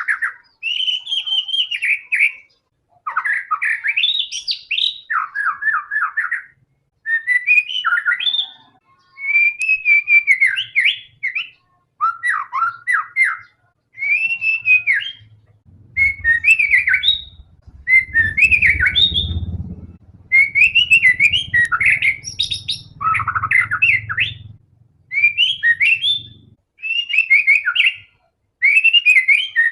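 White-rumped shama (murai batu) singing continuously in quick, varied phrases of whistles and trills, one after another with short pauses. A low rumble comes in about halfway through and stops some ten seconds later.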